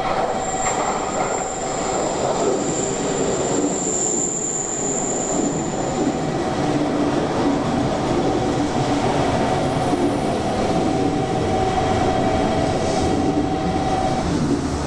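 Electric train moving on the station track: a steady rumble of steel wheels on rail, with a thin high squeal for roughly the first six seconds and steady humming tones throughout.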